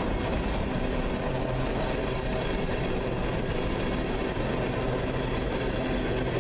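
Freight train rolling past, a steady rumble of wheels on rail.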